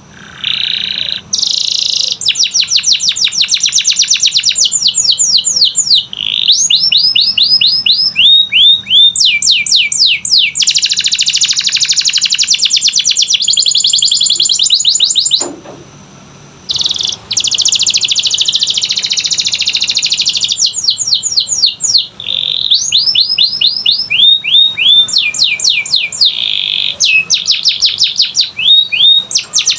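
Domestic canary singing a long, loud song made of fast runs of repeated sweeping notes. It breaks off for about a second and a half near the middle, then starts again.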